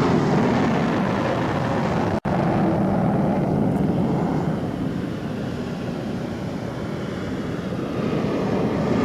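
English Electric Lightning fighter's twin Rolls-Royce Avon turbojets running at high power: a loud, steady rushing jet noise. The sound drops out for an instant about two seconds in.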